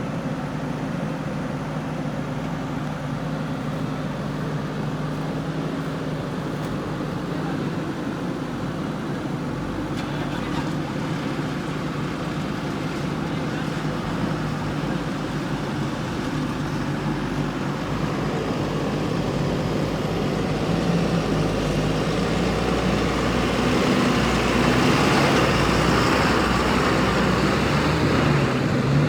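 Diesel engine of a JCB 3DX backhoe loader running steadily, then working harder and growing louder from about two-thirds of the way in.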